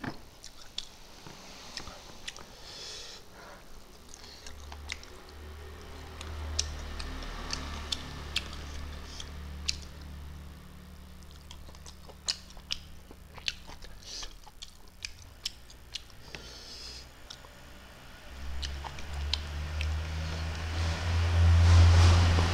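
A person chewing and lip-smacking while eating fish and rice by hand, with many scattered sharp mouth clicks. A low rumble grows louder near the end.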